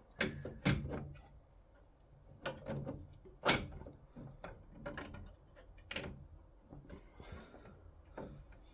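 Irregular clicks and knocks, about nine over several seconds, of 3D-printed dock parts being handled and shifted along the aluminium dock rods while their screws are still loose.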